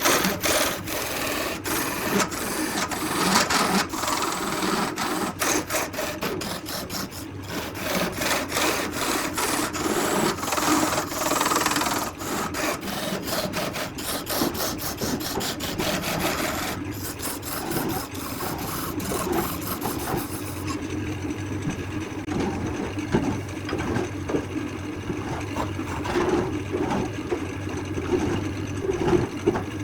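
Wood being worked with a power tool: a rasping, scraping sound over a steady motor hum, full of rapid ticks at first. About two-thirds of the way through the hiss drops away, leaving mostly the lower hum with lighter scraping.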